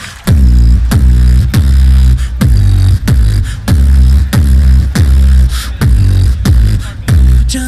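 Beatboxer's deep bass drops: a steady pattern of heavy kicks about twice a second, each a sharp click sliding down into a low booming tone, with light hissing snare sounds in between.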